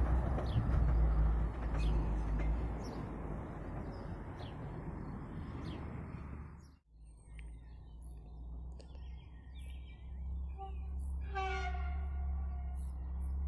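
Regional railcar running past and moving away, its rumble and low engine hum fading. After a sudden break, a distant approaching train sounds its horn once, briefly, about eleven seconds in.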